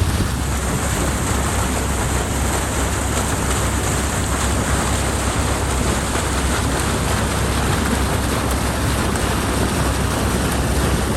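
Water rushing through a culvert in a strong, steady flow as the backed-up water behind a broken beaver dam drains out, over a low steady rumble.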